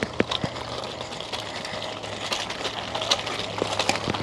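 Small plastic toy monster-truck wheels fitted to a bike, clicking and rattling irregularly as the bike is ridden and pushed along.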